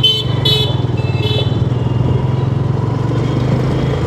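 Motorcycle engine running steadily while riding, with three short vehicle-horn beeps in the first second and a half.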